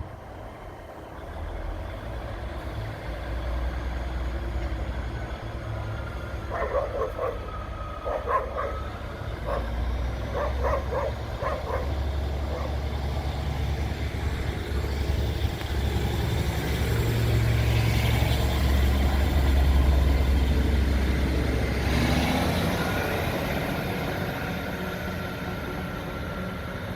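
Class 150 diesel multiple unit's engines running with a deep rumble that builds towards the middle, with a short series of pitched tones or calls in the first half.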